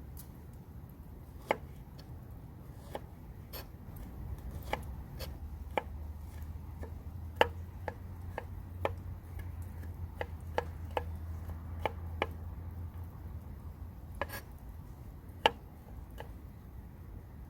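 Knife cutting on a cutting board: single sharp knocks at an irregular, unhurried pace, about one a second. A low steady hum sits underneath through the middle of the stretch.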